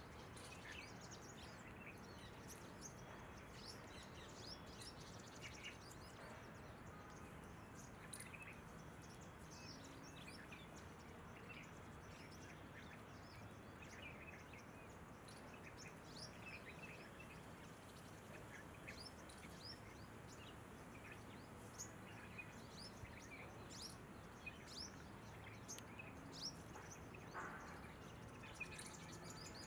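Faint birdsong: many short, high chirps from several birds scattered throughout, over a steady background hiss.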